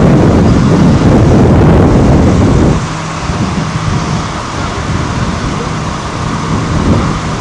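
Storm wind rushing over the microphone, with a car's engine hum under it; the rush drops suddenly about three seconds in, leaving a quieter steady noise.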